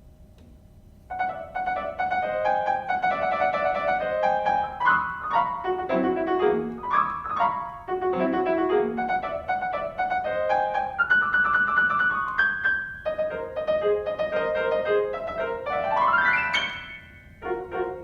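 Piano playing a lively melody over chords, starting about a second in, with a quick upward glissando near the end and a short closing chord.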